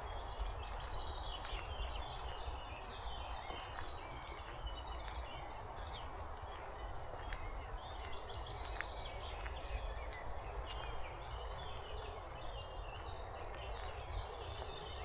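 Heavy rain falling steadily, with wind rumbling on the microphone and birds chirping through the rain. Scattered sharp ticks sound throughout.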